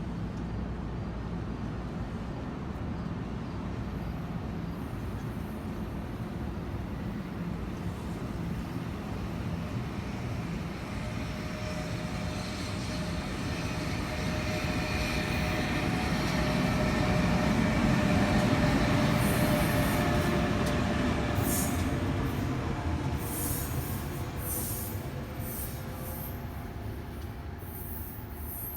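Passenger train passing on the Northeast Corridor: a rumble of wheels on rail that builds to its loudest about two-thirds of the way in, then fades, with faint high steady tones over it.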